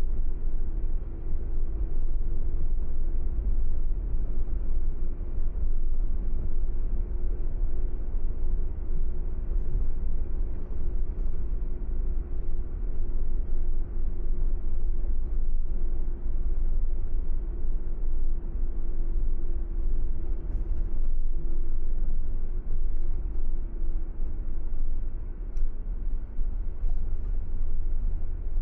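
Car driving at steady speed, with a continuous low road-and-engine rumble and a steady hum that fades near the end.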